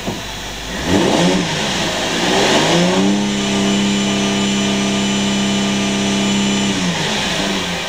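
2008 Holden Commodore's 3.6-litre V6 being revved in Park. A quick blip comes about a second in, then the engine rises and holds steady at about 4,000 rpm for roughly four seconds before dropping back toward idle near the end.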